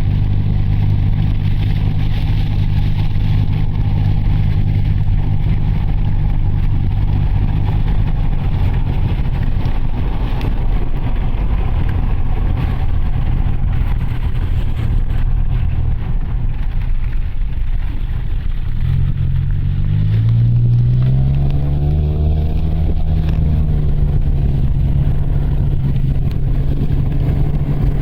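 Mitsubishi Delica van driving, its engine and road noise heard from inside the cabin. The engine note eases off about eight seconds in, then rises in pitch as the van accelerates about twenty seconds in before settling again.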